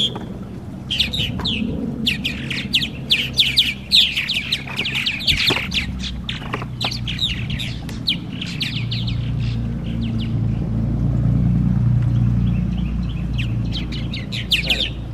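Purple martins chirping and chattering in quick runs of short falling chirps. A low, steady hum swells and fades in the background in the middle.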